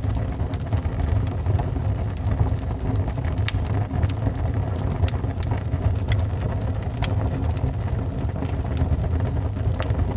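Wood fire in a fireplace burning with a steady low rumble of flames and scattered sharp crackles and pops from the logs.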